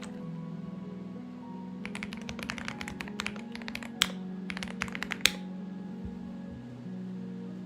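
Typing on a Xinmeng X98 mechanical keyboard: a quick run of key clicks for a few seconds, with two heavier key strikes near the end of the run.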